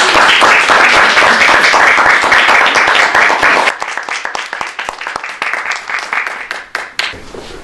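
Audience applauding, dense at first, then thinning to scattered claps about four seconds in and dying away.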